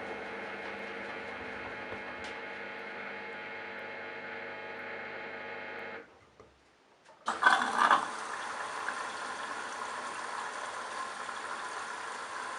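Candy Bianca washing machine: a steady motor hum stops about six seconds in, and after a second of near silence a sudden loud rush starts and settles into water running steadily into the machine.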